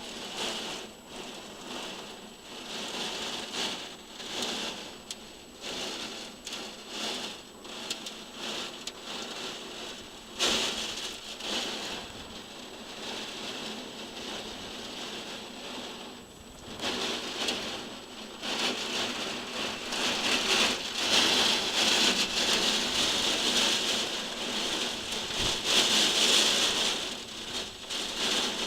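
Heavy rain falling in a thunderstorm, with many sharp drop hits on a surface close by. The rain gets louder about two-thirds of the way through.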